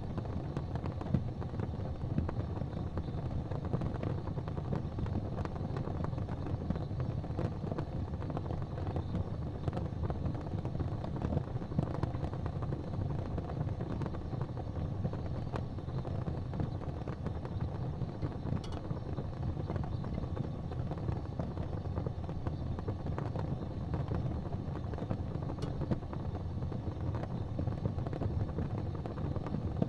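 Wood fire burning in a fireplace: a steady low roar from the flames, with a few faint pops here and there.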